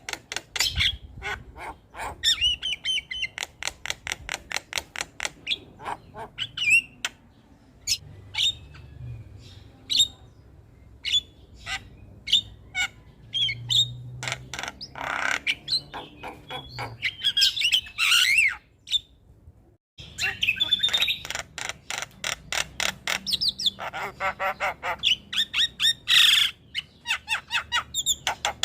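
Javan myna (jalak kebo) singing: rapid runs of harsh clicks and chattering squawks mixed with short whistled notes. The song breaks off briefly about twenty seconds in.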